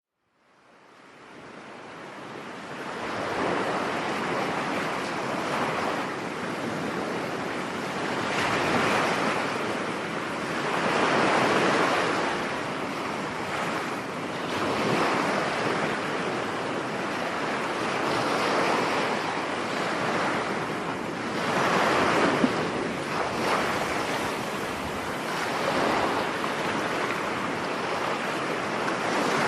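Rough surf breaking on a beach in stormy weather. It fades in over the first few seconds, then the waves rush in and wash back in swells every three to four seconds.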